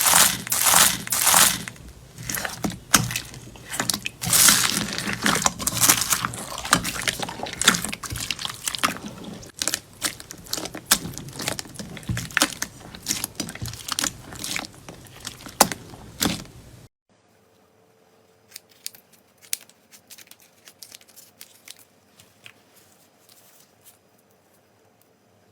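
Slime being squeezed and worked by hand, a dense run of crackling, crunchy pops and clicks. About 17 seconds in it cuts abruptly to a much quieter clip of sparse, soft squishes and clicks.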